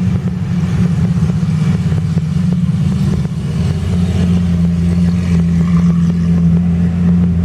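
Supercar engines running loudly at a fairly steady low pitch as the cars drive along, with a slight change in engine note about four seconds in.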